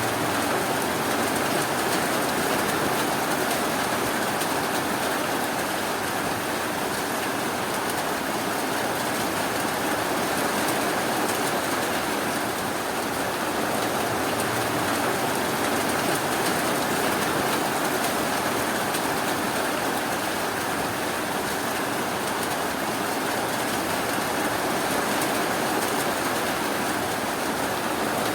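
Steady, continuous rainfall, an even hiss without breaks or single drops standing out.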